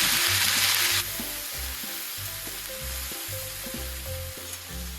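Meat and vegetables sizzling in hot oil as they are stir-fried for Mongolian barbecue; the loud sizzle drops sharply about a second in and carries on more faintly. Background music with a bass line plays underneath.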